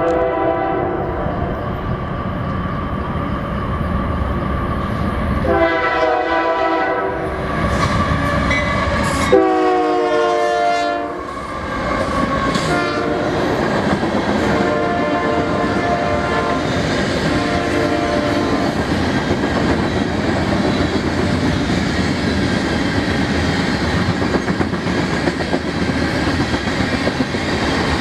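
Union Pacific diesel freight locomotive sounding its air horn in a series of blasts, one long blast falling in pitch as it passes, then freight cars (covered hoppers) rolling by with a steady clatter of wheels on the rails.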